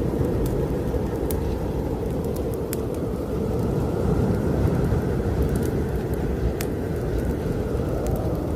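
Blizzard wind blowing in a steady low rush that swells a little midway, with the sharp crackles and pops of a wood fire in a fireplace scattered through it.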